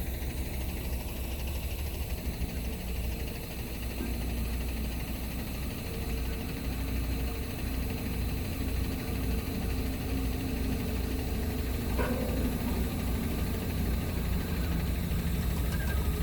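A 20-tonne road roller's diesel engine running steadily at idle, a deep constant rumble. A single short click comes about three-quarters of the way through.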